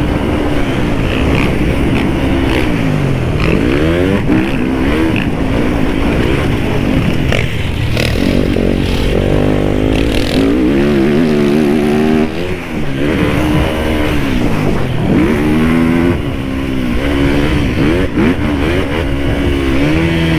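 Dirt bike engine being ridden hard, its revs climbing and falling over and over as the throttle is worked, with a couple of short dips where the throttle shuts off.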